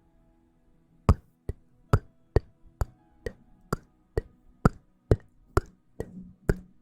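Sharp, evenly spaced wooden-sounding clicks, about two a second, starting about a second in, over faint soft tones.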